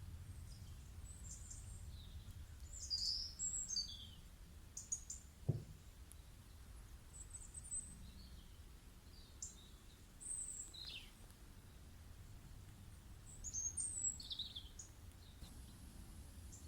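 Wild birds chirping in short, scattered calls and quick falling sweeps, over a steady low background rumble. A single brief low thud about five and a half seconds in.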